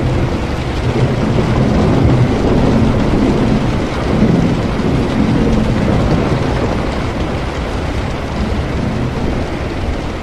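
Steady rain with a long, low roll of thunder that swells over the first couple of seconds and slowly fades away.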